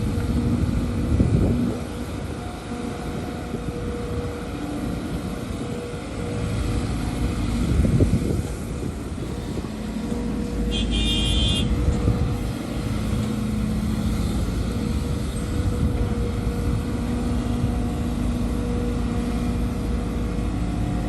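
Heavy diesel machinery, an excavator and dump trucks, running steadily, with a couple of louder surges. A short high-pitched beep sounds about halfway through.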